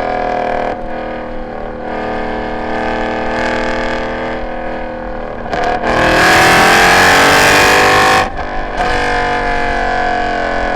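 Mercedes M156 6.2-litre V8 of a C63 AMG with long-tube headers, x-pipe and no catalytic converters, running hard on track. The exhaust note dips briefly about a second in. About six seconds in comes a loud full-throttle pull with rising pitch that cuts off sharply some two seconds later, and the engine then carries on with a slowly falling pitch.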